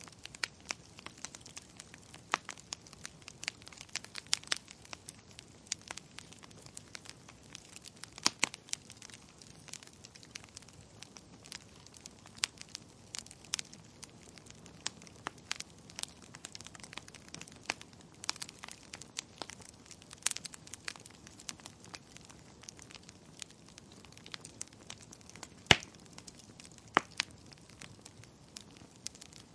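Wood fire in a fireplace crackling, with irregular sharp pops and snaps over a soft steady hiss; one pop late on is louder than the rest.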